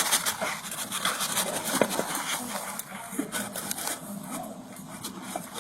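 Scattered light knocks and scrapes of objects being handled and moved, busiest in the first couple of seconds, over a faint steady low hum.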